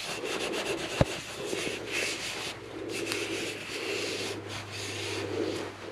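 Cloth or hand rubbing and scraping over a turned wooden workpiece while applying sanding sealer, with a single sharp click about a second in and a steady low hum joining from about a second and a half in.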